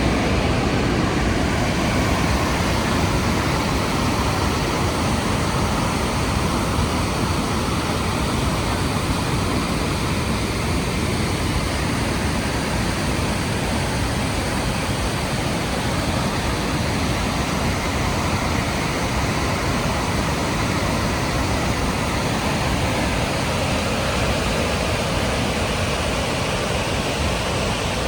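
Rhine Falls' cascading water making a steady, loud rushing noise.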